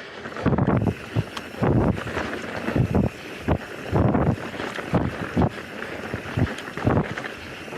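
Mountain bike riding fast down a dirt forest singletrack: tyres rolling over dirt and roots, with irregular thumps and rattles from bumps, and wind on the microphone.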